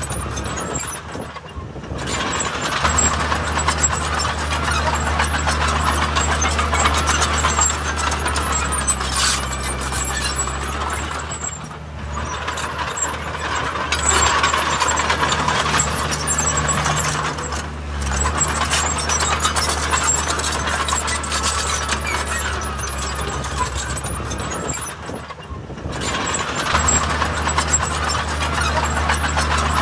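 Heavy diesel earthmoving machinery running hard, a steady low engine drone under mechanical clatter, easing briefly a few times before building again.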